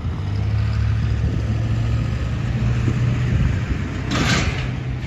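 Car engine idling steadily close by, with a brief hiss about four seconds in.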